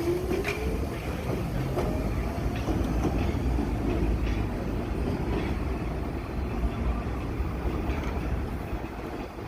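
New York City subway train running along the track: a rising traction-motor whine in the first couple of seconds, a few sharp clicks of wheels over rail joints, and a steady rumble throughout.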